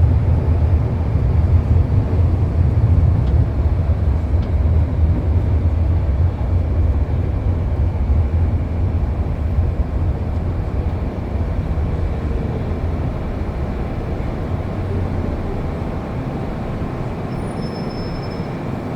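MTR Kwun Tong Line M-Train running, heard from on board: a steady low rumble that gradually quietens as the train slows. A faint high tone comes in near the end.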